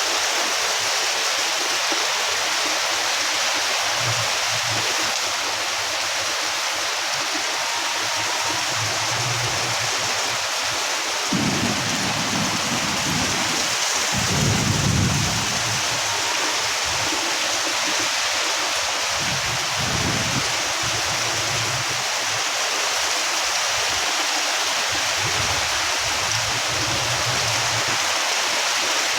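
Heavy rain pouring steadily, with a few deep rumbles swelling and fading about halfway through.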